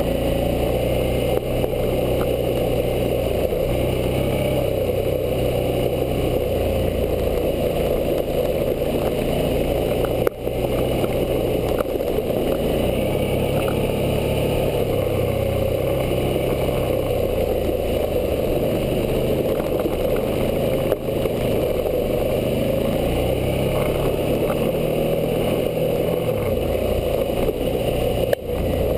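Suzuki V-Strom 650's 645 cc V-twin engine running under way on a dirt trail, its pitch stepping up and down as the throttle and speed change, over a steady rushing noise.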